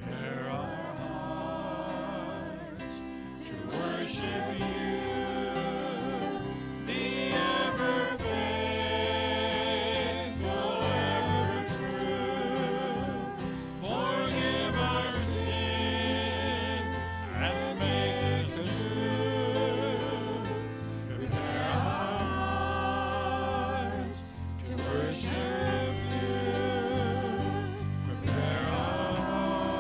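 Worship song sung by a group of voices with vibrato over instrumental backing and a steady bass line.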